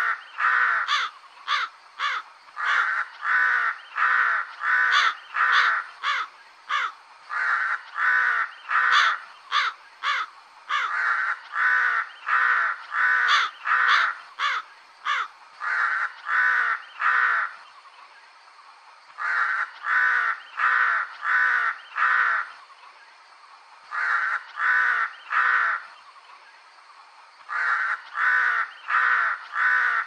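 Crow cawing: long runs of harsh, repeated caws at about two a second, broken by three short pauses in the second half.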